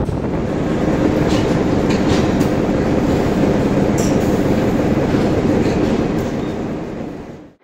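Train rolling along the track, heard from the side of a moving locomotive: a steady rumble of wheels and running gear with a few sharp clicks. The sound cuts off suddenly at the end.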